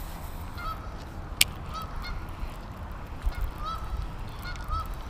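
A bird repeatedly giving short honking calls, with wind rumbling on the microphone and a single sharp click about a second and a half in.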